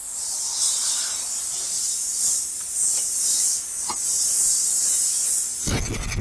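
Compressed air hissing out in surges that swell and fade, with a low rumble starting near the end.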